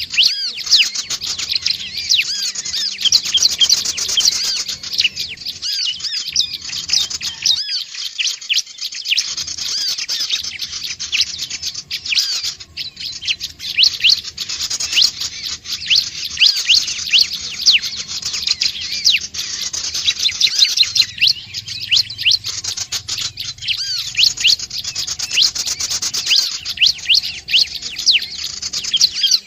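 Prinia (prenjak/ciblek) song: rapid, high-pitched chirps strung together in long runs, broken by a few short pauses.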